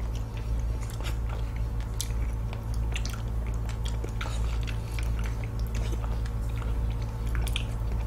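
Close-miked wet mouth sounds of a peeled fresh fig being bitten and chewed: many small smacks and clicks, over a steady low hum.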